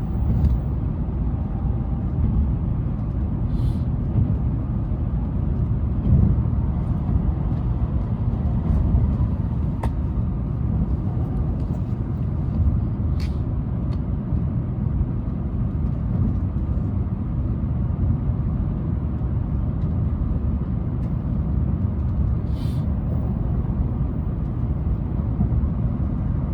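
Cabin noise of a Tokaido Shinkansen train in motion: a steady low rumble of the running gear on the track, with a few faint brief ticks.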